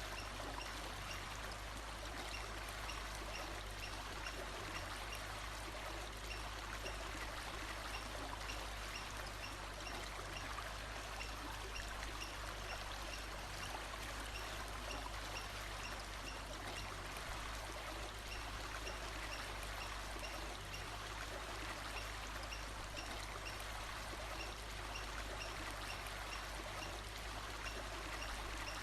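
Flowing stream water, a steady even rush, with a faint high note repeating about twice a second behind it.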